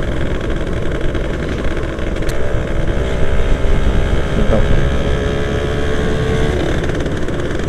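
Yamaha F1ZR's 110cc two-stroke single-cylinder engine running while the motorcycle is ridden, over a steady rumble of road and wind; its engine note comes through clearer from about three seconds in.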